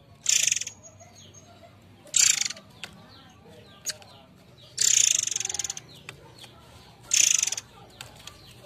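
Forktail (murai air) giving four shrill, buzzy calls, each a fast rattle lasting half a second to a second; the third is the longest.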